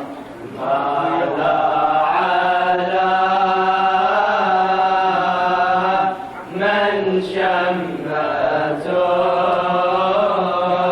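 A vocal group chanting an Arabic religious elegy in long, held, ornamented notes over a steady low hum. The voices break off briefly near the start and again about six seconds in.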